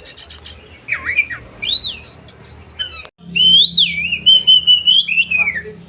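Oriental magpie-robin singing a loud, varied song of sharp whistled phrases, rising and falling glides and quick trills, broken by a brief pause about three seconds in.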